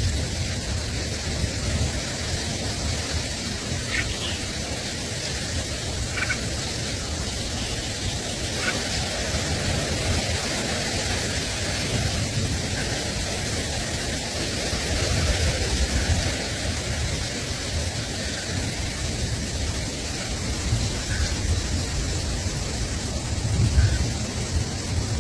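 Steady outdoor noise with wind rumbling on the microphone, swelling now and then, and a few faint short bird chirps scattered through it.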